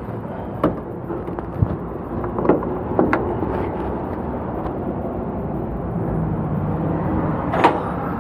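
Semi-truck running steadily, with a handful of sharp metallic knocks spread through, the loudest near the end.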